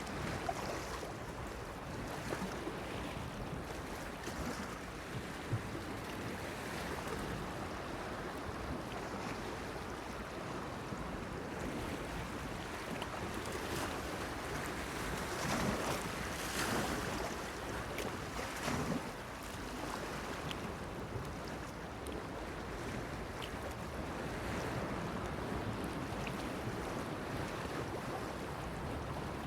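Waves washing against a pier, a steady rush of water that swells louder a few times about halfway through.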